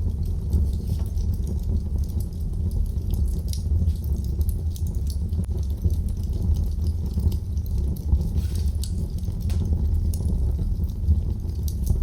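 Wood fire burning in a fireplace, crackling with frequent sharp snaps and pops over a steady low rumble of the flames.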